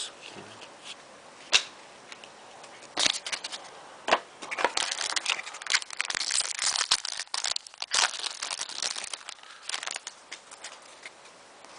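Crinkling, tearing and crackling of a hockey card pack's wrapper and the cards inside as a pack is opened and handled, with scattered sharp snaps that are busiest in the middle.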